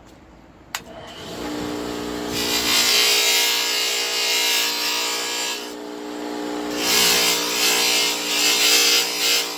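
An electric abrasive machine clicks on about a second in and runs with a steady hum. Twice, for several seconds each, a workpiece is pressed against the abrasive, giving a loud grinding hiss over the hum.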